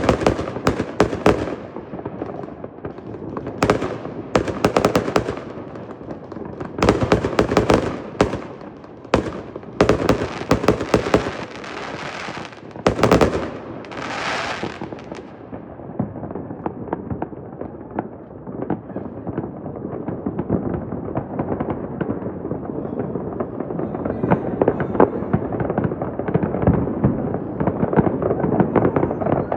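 New Year's fireworks bursting in rapid volleys of bangs and crackles. About halfway through, the sharp high crackle drops away, leaving a dense, continuous patter of bursts that grows louder toward the end.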